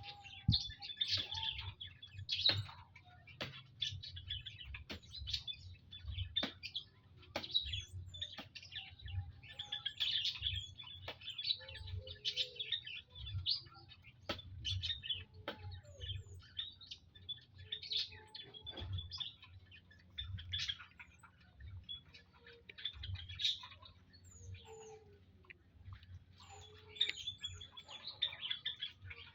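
Olive-backed tailorbirds chirping: many short, high calls in quick, irregular succession, with scattered sharp clicks among them.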